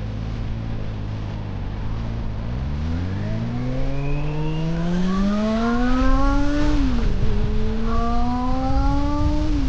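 Honda CB400 Super Four's inline-four engine accelerating: a steady low note, then a pitch that climbs from about two seconds in, drops sharply at an upshift about seven seconds in, and climbs again to another upshift at the very end, over a low rumble of wind and road.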